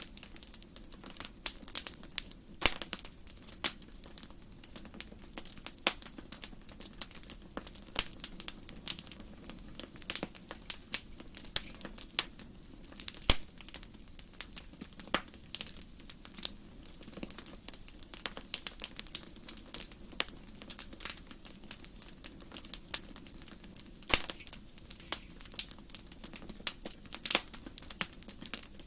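Wood fire burning in a fireplace, crackling and popping in sharp, irregular snaps over a low steady hiss.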